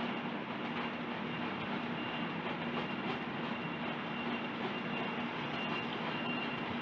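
Steady background hum and hiss with a faint, steady high tone, unchanging throughout.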